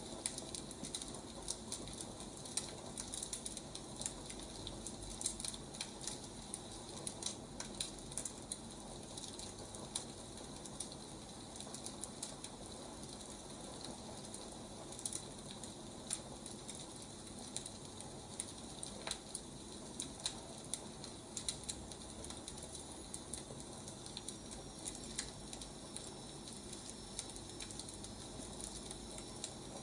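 Wood fire crackling: a steady soft hiss with frequent, irregular sharp pops and snaps from burning logs.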